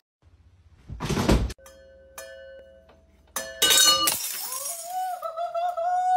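A crash about a second in, followed by ringing clinks like glass, then a second crash with more ringing clinks a couple of seconds later. Near the end, a long wavering high call that cuts off suddenly.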